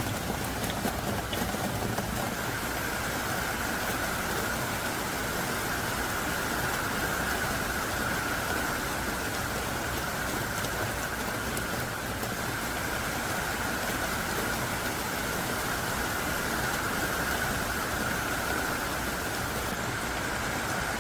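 Heavy rain pouring down steadily in a dense, even downpour.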